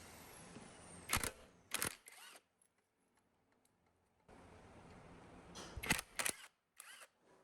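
A few sharp clicks and knocks of hand tools and metal engine parts being handled: two close together about a second in, then a cluster of three near the end. A stretch of dead silence falls in the middle.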